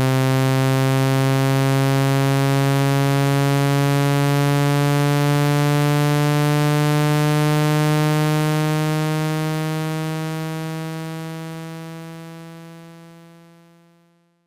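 Synthetic speaker-cleaning tone: a low, buzzy electronic tone that climbs slowly in pitch, played to vibrate water droplets and dust out of a phone speaker. It holds steady for about eight seconds, then fades out to silence near the end.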